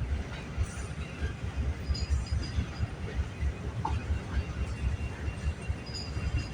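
CPKC freight train rolling past, its cars making a continuous uneven low rumble, with a few faint, brief high squeals.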